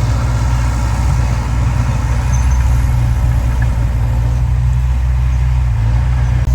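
Heavy earthmoving machine's diesel engine running steadily at a low, even pitch.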